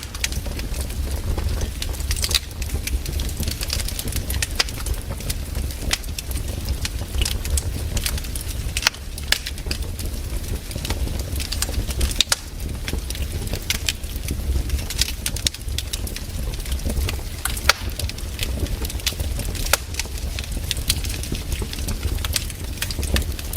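Campfire burning: the wood crackles and pops in sharp, irregular snaps over a steady low rumble.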